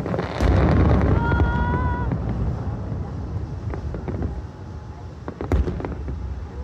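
Aerial fireworks bursting: a deep boom about half a second in, then scattered sharp crackling pops and another loud bang near the end.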